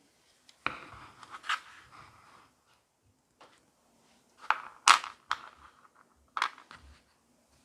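Hands handling a slime container and its decorations: sharp clicks and crinkly rustles in three short bursts, the loudest around the middle.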